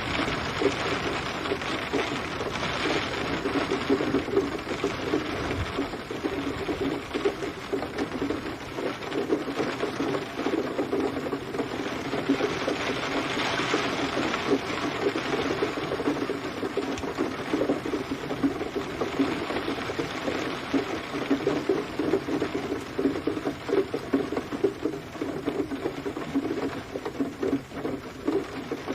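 Steady rain, a dense fast patter of drops on a surface, with no let-up.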